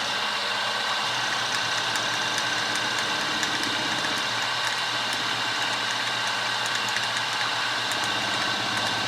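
Milling machine spindle running steadily with a 3/8-inch end mill cutting a slot, a constant machine hum with faint high ticking from about a second and a half in.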